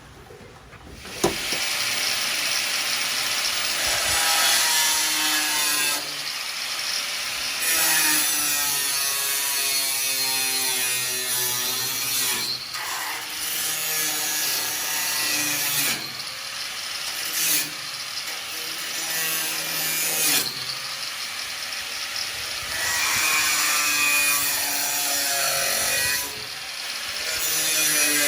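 Angle grinder cutting a pickup's sheet-metal fender, starting about a second in, its pitch sagging and recovering as the disc bites and eases, with short breaks between cuts.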